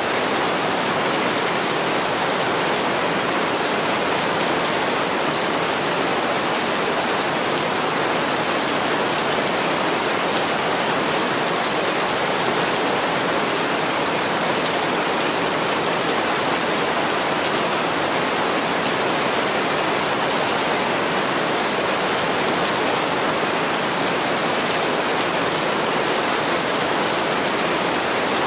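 Heavy rain falling steadily on a window: an even, unbroken hiss.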